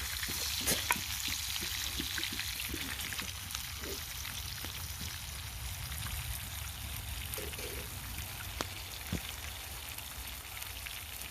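Bacon-wrapped burgers sizzling in a cast iron pan over a campfire: a steady hiss with scattered pops and crackles over a low rumble.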